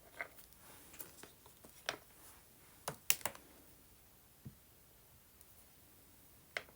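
About eight light, irregular taps and clicks, with a cluster of the loudest just after the middle. This is a hot soldering iron tip being pressed down again and again onto paper or fabric on a work surface to burn a pattern of dots.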